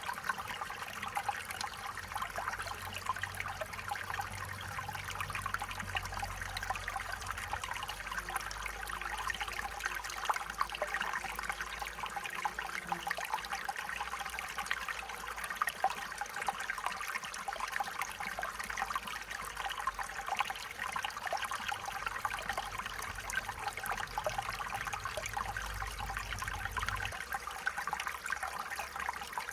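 Small stream trickling and burbling steadily over stones.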